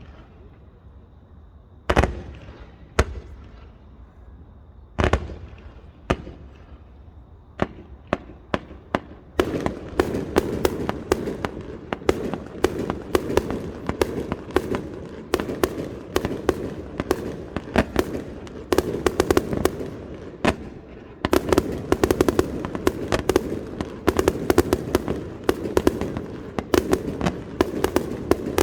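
Fireworks display: separate loud shell bursts a second or more apart, then from about nine seconds in a dense barrage of rapid cracks over continuous crackling, building again near the end.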